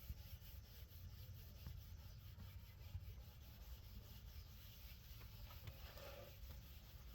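Near silence: a faint low rumble, with a few faint ticks.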